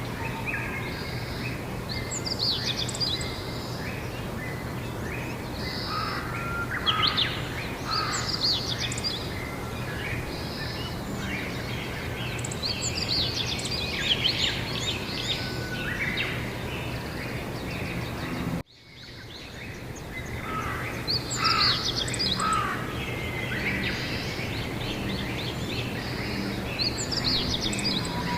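Songbirds singing in repeated, overlapping phrases over a steady low background hum. About two-thirds of the way through, everything cuts out for a moment and then fades back in.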